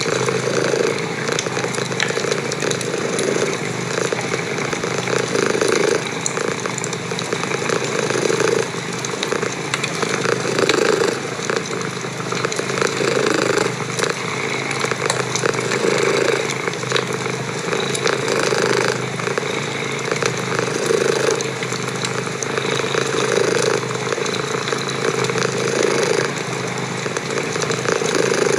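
Domestic cat purring close up, swelling and easing about every two and a half seconds with each breath, over the crackle of a wood fire in a fireplace.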